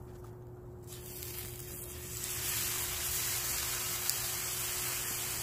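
Raw gopchang (intestines) going into a hot oiled frying pan and sizzling. The sizzle starts about a second in, grows much louder about two seconds in, then holds steady.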